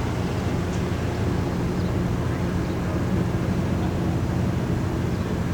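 Small tugboat's engine running with a steady low drone.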